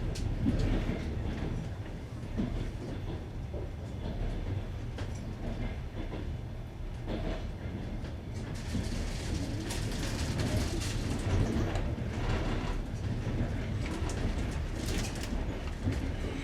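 Passenger train wheels running over jointed rails, heard from inside the carriage: a steady rumble with the clickety-clack of the wheels crossing rail joints.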